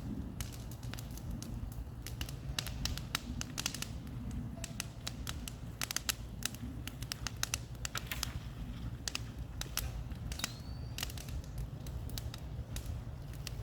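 Bonfire crackling, with irregular sharp cracks and pops over a steady low rumble.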